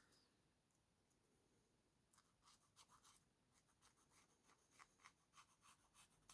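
Near silence, with faint short scratching strokes on paper starting about two seconds in, like a pen or marker being worked over a page.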